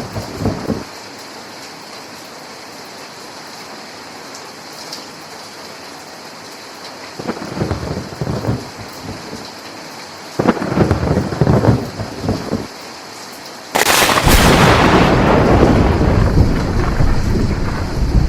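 Steady rain hiss with thunder: low rumbles come and go from about seven seconds in, then a loud thunderclap near the end rolls on for several seconds.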